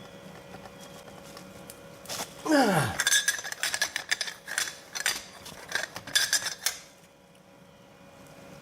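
Metal tools clinking and clanking against a seized suspension bolt as a wrench is worked on it, in a run of sharp clicks from about two seconds in to about seven seconds in, with a brief falling tone early in the run.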